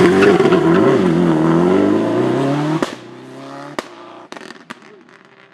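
Rally car engine at high revs close by, its pitch rising and falling with the throttle. The sound drops off sharply a little under three seconds in as the car moves away. A few sharp exhaust bangs follow while it fades.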